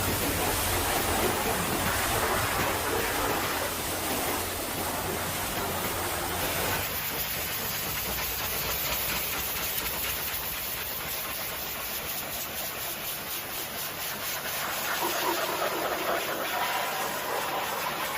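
High-pressure water spray hissing steadily. About seven seconds in the low rumble drops away and the spray sounds thinner.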